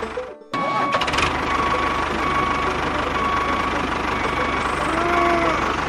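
A small motor running steadily, cut off briefly about half a second in and then running on. A short pitched call rises and falls about five seconds in.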